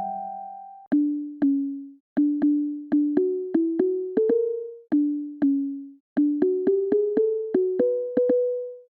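Riot Audio Bionic Plucks & Mallets virtual instrument playing a short rising melody of single plucked mallet-like notes, each with a sharp click at the start and a quick decay. The phrase is played twice. A ringing chord fades out during the first second.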